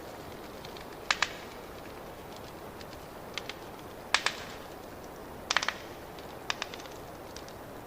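Wood fire crackling: sharp pops and snaps, single and in quick clusters every second or so, over a steady hiss.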